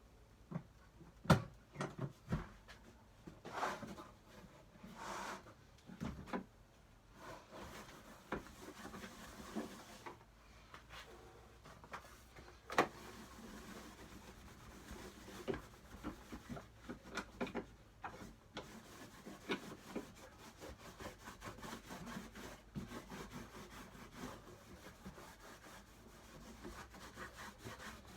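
A cloth rubbing wax into the wood of an old wooden toolbox. There are a few sharp knocks in the first seconds, the loudest about a second in. Quick back-and-forth rubbing strokes fill the second half.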